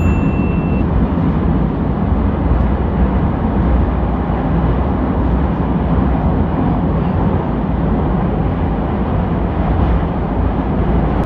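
Subway train running: a steady low rumble.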